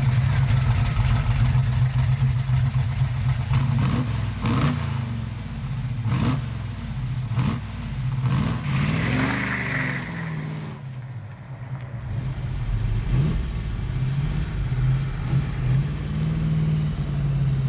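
Car engine revving hard under acceleration, the pitch rising and dropping several times as it pulls through the gears.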